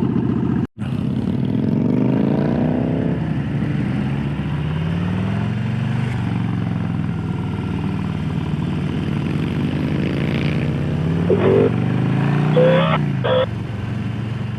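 Harley-Davidson Low Rider S Milwaukee-Eight V-twin running under way, its pitch rising and falling several times with throttle and gear changes. The sound breaks off for an instant about a second in, and a few short clattery knocks come near the end.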